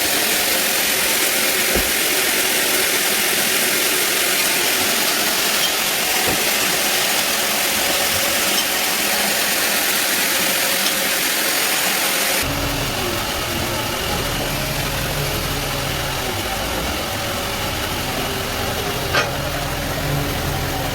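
Sawmill bandsaw running through teak, a steady high hiss. About twelve seconds in, the sound switches abruptly to a lower, engine-like rumble, with a single sharp click near the end.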